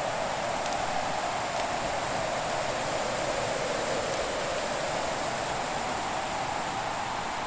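Wood fire ambience: a steady rushing noise that drifts slowly in pitch, with a few faint crackles of burning wood.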